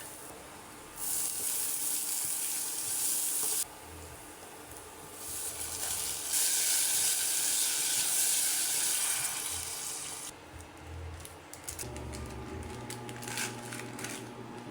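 Water running from a tap, in two spells: one that starts about a second in and is cut off suddenly, and a longer one from about five to ten seconds in. Light clicks and knocks follow.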